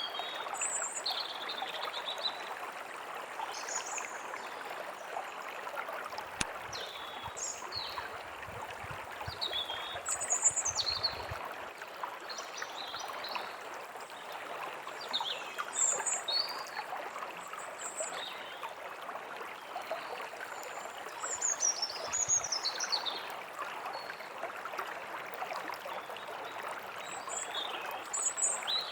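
A small forest stream trickling steadily, with songbirds giving short, high chirps and quick sweeping notes scattered throughout.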